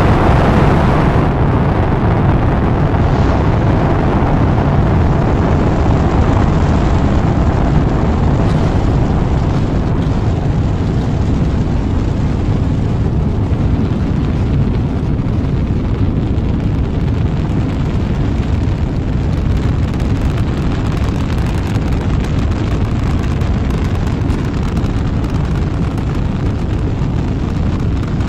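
Rocket engine roar: a loud, steady rumble, harsher and brighter in the first second or so before it settles.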